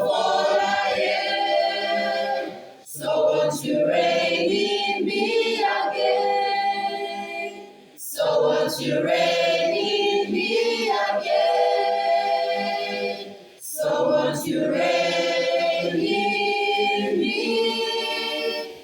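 Choir singing a cappella in long held phrases of about five seconds each, with a short breath-gap between phrases.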